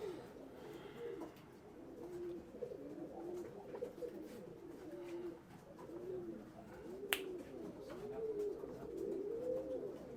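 Several domestic pigeons cooing, their rising-and-falling coos overlapping one another continuously. A single sharp click sounds about seven seconds in.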